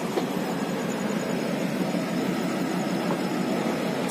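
Steady rolling noise of a moving passenger train, heard from on board, with a faint click from the wheels on the track near the start.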